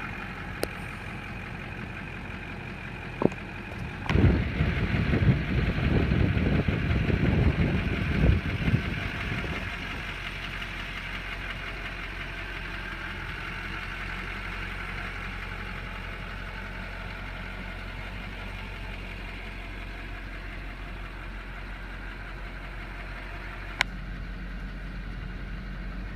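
2002 Chevy diesel truck engine idling steadily, with a louder, rougher low rumble from about four to nine seconds in and a few sharp clicks.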